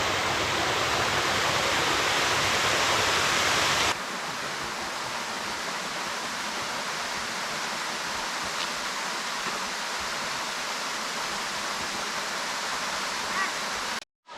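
Waterfall's steady rush of falling water. About four seconds in it drops suddenly to a quieter, steady rush, and it cuts out briefly just before the end.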